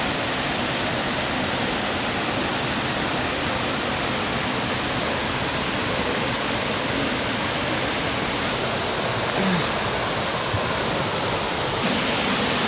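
Waterfall pouring nearby: a steady, even rush of falling water that fills the whole sound, a little brighter in tone near the end.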